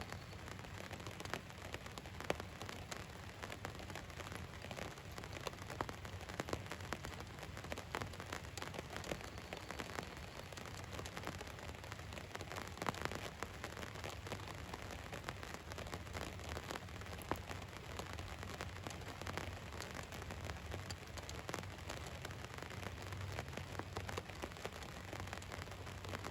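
Rain falling on a van's roof: a steady patter with many individual drops ticking sharply on the metal.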